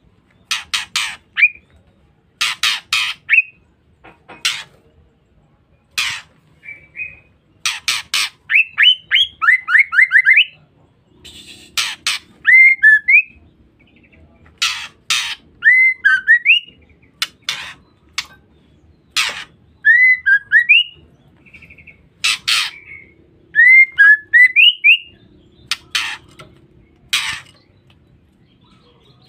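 Female white-rumped shama (murai batu) calling: short, harsh rasping 'ngeriwik' calls repeated every second or two, with short rising whistled notes in between.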